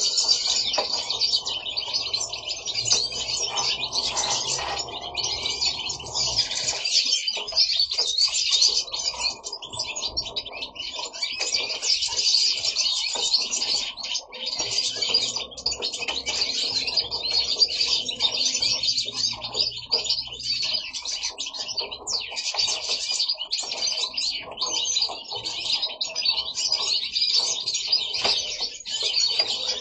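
European goldfinches singing: a continuous, fast, high-pitched twittering song with no pauses.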